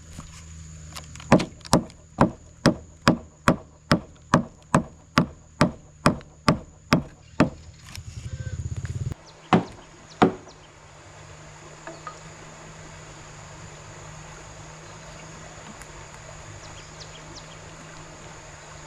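Chopping on wood: a quick, even run of about fifteen blows, roughly two a second, then a short buzzing rattle, two more blows, and a steady background hiss.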